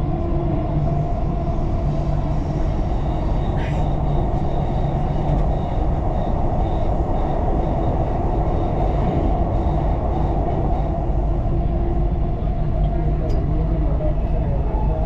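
Dubai Metro train running between stations, heard from inside the carriage: a steady rumble of wheels and traction motors on the track, with a brief high squeak about three and a half seconds in.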